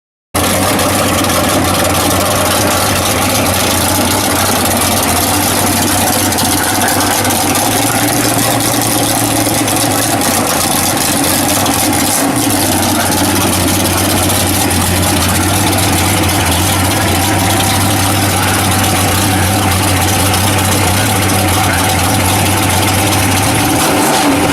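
1970 Chevrolet Camaro Z28's V8 engine idling loudly and steadily.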